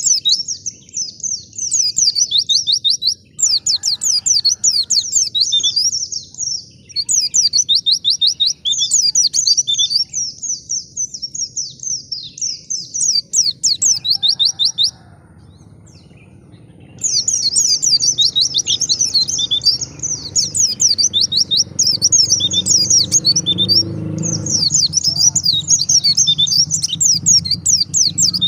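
White-eye (pleci) singing long bouts of rapid, high twittering song, with a break of about two seconds midway. A low rumble sits underneath and grows louder in the second half.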